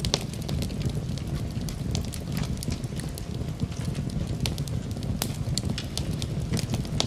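Fireplace fire crackling, with many scattered sharp pops and crackles over a steady low rumble.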